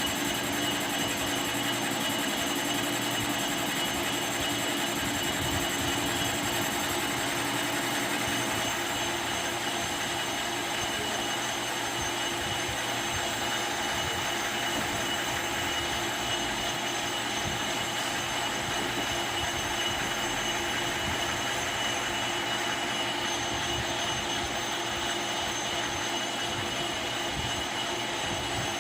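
Metal lathe running and cutting steadily, a continuous machine noise with a steady high whine over it.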